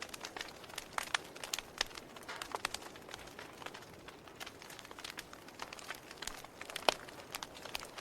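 Wood fire crackling: irregular sharp pops and snaps over a soft hiss, with one louder pop about seven seconds in.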